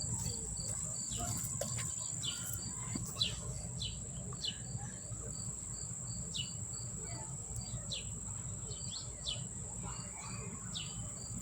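Insects trilling: a steady high-pitched whine, with a regular chirp about three times a second that stops about halfway through. Scattered short, downward-sweeping chirps from small birds sound over it.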